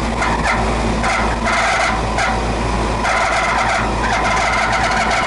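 Old air-conditioning condensing unit running with a loud, rough rattling noise that pulses about once a second over a steady low hum. The noise comes from the condenser fan motor, which is failing and needs to be replaced.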